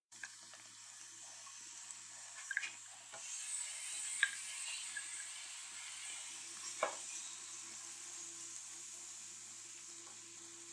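Marinated chicken cubes sizzling faintly in hot oil on a grill pan, the sizzle growing a little about three seconds in. A few light clicks come as the cubes are spread out with a spatula.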